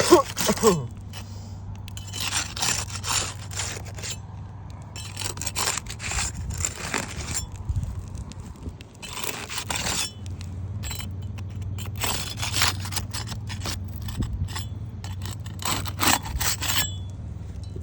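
Hand tool scraping and prying under old roof shingles to work them and their nails loose, in repeated bouts of a second or two.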